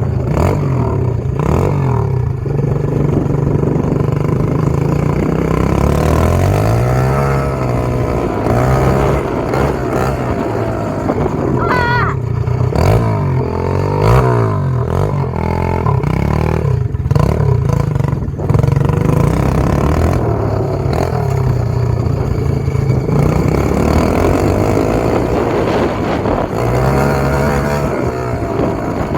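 SSR 125 pit bike's single-cylinder four-stroke engine running, its revs climbing and dropping again and again.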